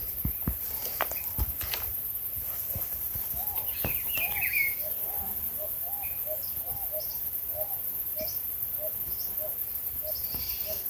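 Countryside ambience: a steady high insect hiss and scattered bird chirps. From about halfway in, one bird repeats a short, low, hooting note about twice a second. A few light knocks come in the first couple of seconds.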